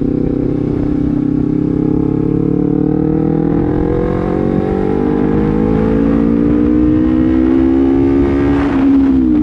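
Honda CBR250RR engine through a Proliner aftermarket slip-on exhaust, pulling with its pitch climbing slowly and steadily as the bike accelerates, then dropping quickly near the end as the revs fall.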